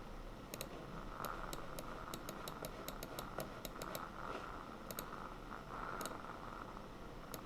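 Computer keyboard typing: a run of light key clicks, about four or five a second, pausing about five seconds in, then a couple of single clicks. A steady low hiss lies underneath.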